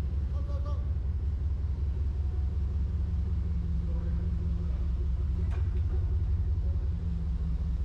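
A vehicle's engine idling with a steady low rumble, with a brief click about halfway through.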